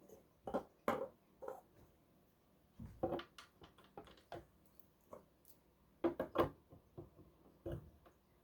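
LEGO plastic pieces clicking and knocking together as they are handled and pressed into place: short, sharp clicks at uneven intervals, several of them close together about six seconds in.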